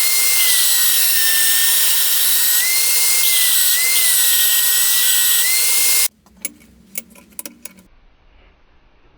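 Electric grinder running on metal: a loud steady grinding noise with a high whine that dips and recovers in pitch as the load changes. It cuts off abruptly about six seconds in, followed by a few light clicks and knocks.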